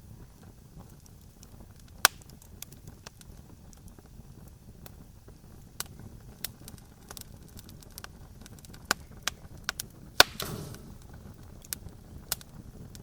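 Campfire crackling: irregular sharp pops and snaps over a low steady rumble. The loudest pops come about two seconds in and about ten seconds in, the second followed by a short hiss.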